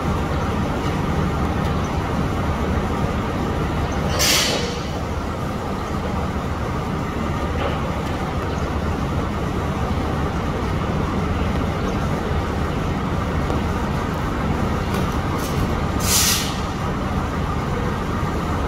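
Steady low rumble of a diesel train idling at a station, with two short sharp hisses of released air, one about four seconds in and one near the end.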